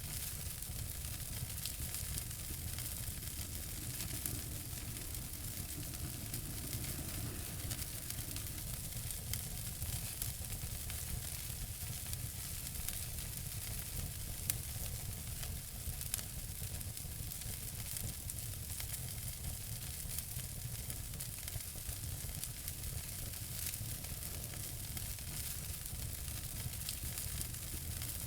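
Wood fire burning in a fireplace: a steady hiss and low rumble with constant fine crackling, and a few louder pops about halfway through.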